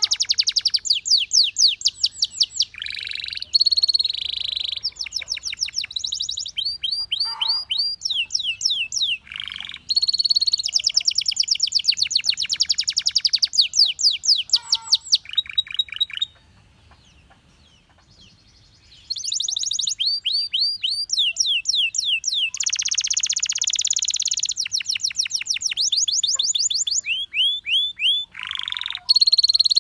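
Canary singing: fast trills of rapidly repeated notes, each run lasting a second or two before switching to a different trill, with a pause of about three seconds in the middle.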